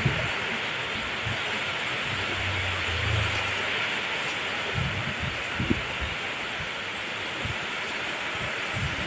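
Heavy rain pouring down in a steady dense hiss, with strong wind gusts buffeting the microphone in irregular low thumps and a brief low rumble about two seconds in.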